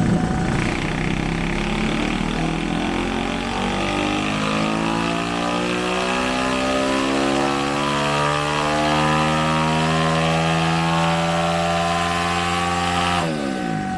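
Honda CT70 with a YX140 single-cylinder four-stroke engine on a chassis dyno, revs climbing steadily at full throttle for about thirteen seconds as the engine pulls up through its rev range. Near the end the throttle shuts and the revs fall away quickly.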